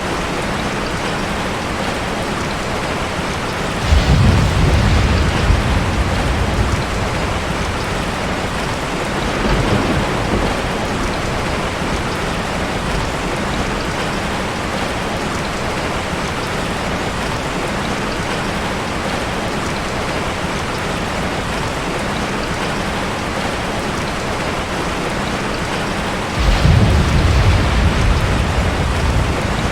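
Steady rain falling, with thunder rumbling low three times: a deep rumble a few seconds in, a fainter one about ten seconds in, and another near the end.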